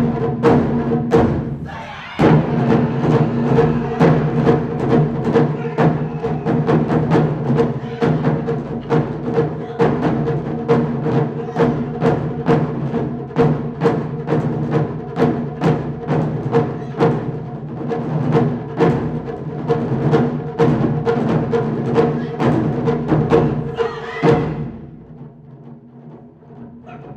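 Japanese taiko drums played by an ensemble in a fast, dense rhythm, with a brief break about two seconds in. The playing ends with a final hit about 24 seconds in, and the hall goes much quieter.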